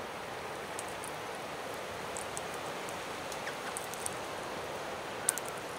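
Steady outdoor wind and rustling-leaf ambience, with a few faint short high clicks and one sharper click about five seconds in.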